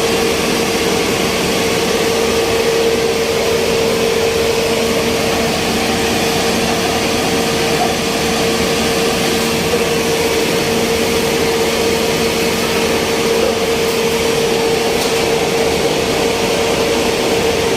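Electric mill machinery running steadily: a loud, even noise over a constant motor hum that does not change.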